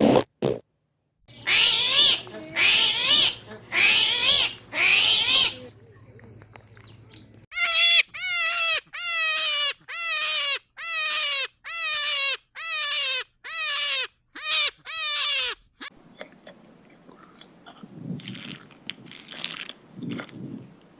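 Animal calls: five loud, high cries, then a steady run of about a dozen short calls, each falling in pitch, followed by quieter low rustling sounds.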